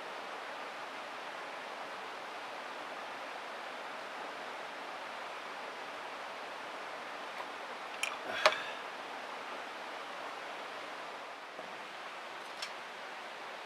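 Steady rushing background noise, broken about eight seconds in by a short cluster of clicks and one sharp knock, with one more faint click near the end.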